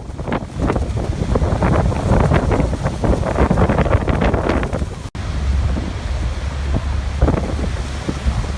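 Rushing water of a waterfall mixed with heavy wind buffeting on the microphone, a loud, steady noise with a deep rumble and gusty surges. The sound cuts out for an instant about five seconds in.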